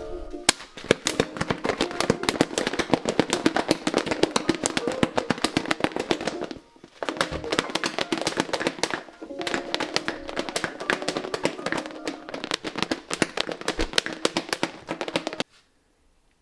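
Fast, continuous clicking of typing on a computer keyboard, with two short pauses, over soft background music. Both stop suddenly near the end.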